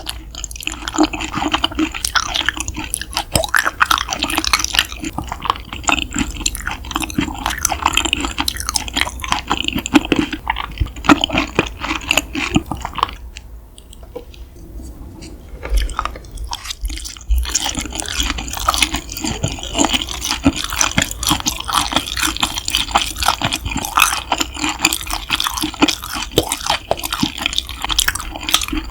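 Close-miked chewing of yukhoe, Korean raw beef tartare: rapid wet, sticky mouth smacks and clicks, easing off for a few seconds about halfway through, then resuming.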